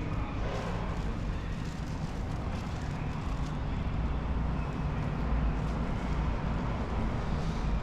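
A steady low rumble, like a vehicle engine running, with a constant hiss of noise over it.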